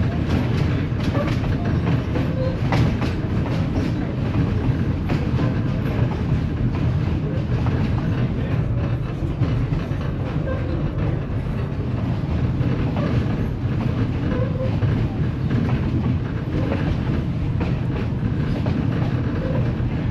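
East Broad Top three-foot narrow-gauge passenger train rolling along: a steady heavy rumble from the cars' wheels and trucks on the track, with frequent irregular clicks and knocks.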